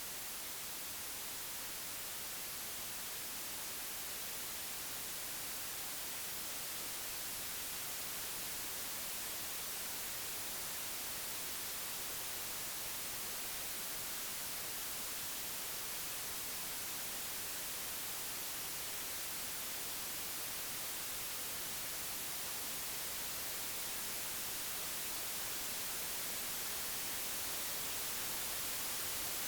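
Computer-generated pure white noise: an even, steady hiss across the whole range, growing slowly louder.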